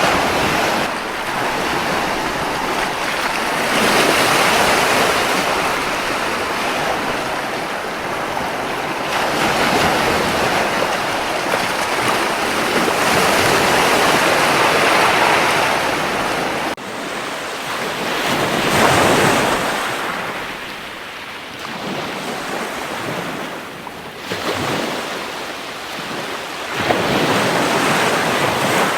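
Sea waves breaking and washing up a beach in slow repeated surges, swelling and fading every few seconds. The sound drops off abruptly about seventeen seconds in before the surf builds again.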